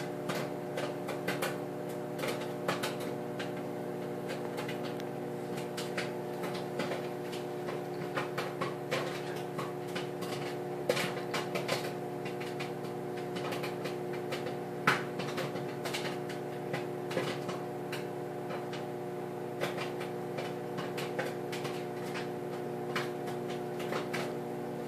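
Popcorn kernels popping in a paper bag inside a running microwave oven: scattered sharp pops over the oven's steady hum. The pops grow sparser toward the end as the popping winds down, the sign that the batch is nearly done.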